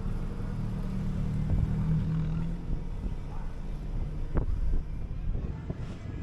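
City bus under way: a steady low engine hum that fades after about two and a half seconds, over road noise, with scattered rattles and a sharp knock a little past four seconds in.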